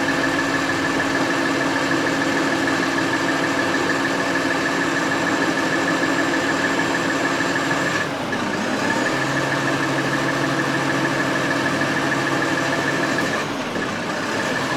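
A vehicle engine running steadily, with a constant high whine above it. About eight seconds in, the engine note dips briefly and recovers, and a lower hum joins it; there is another brief dip near the end.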